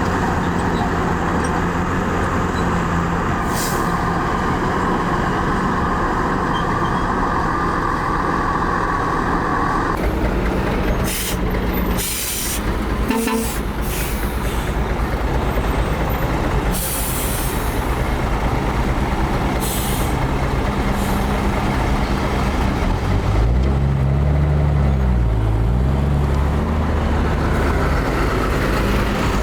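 Heavy diesel engines of earthmoving machinery (bulldozer and dump trucks) running steadily, with several short hissing bursts in the middle and an engine dropping in pitch and revving back up near the end.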